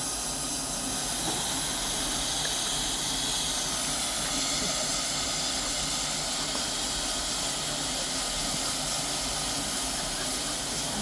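Steam hissing steadily from the Mt Lyell No. 3 steam locomotive, a high, even hiss that holds at the same level throughout.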